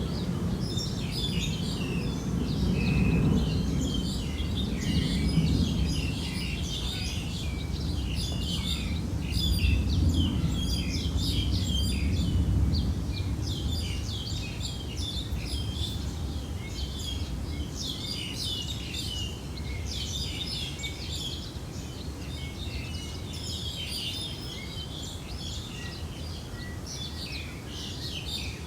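Many small birds chirping continuously in short, overlapping calls, over a low rumble that swells and eases.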